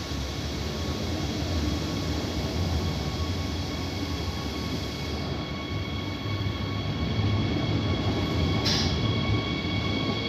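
Deutsche Bahn double-deck Intercity train moving slowly past along the platform: a low rolling rumble with several steady high-pitched tones that grow louder in the second half, and a short hiss about nine seconds in.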